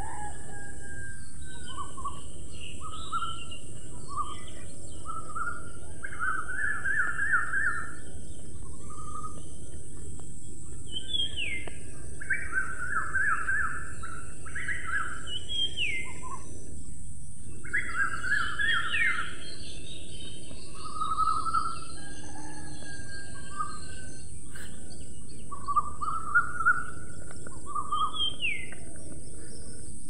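Birds calling: short rising whistles and quick trilled chirp phrases repeat every few seconds over a steady background hiss.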